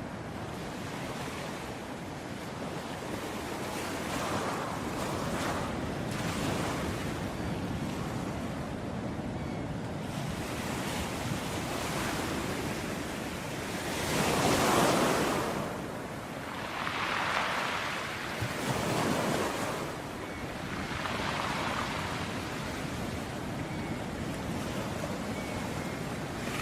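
Ocean surf: waves breaking and washing in over a steady rush of sea noise. It swells loudest about halfway through, then two smaller waves follow.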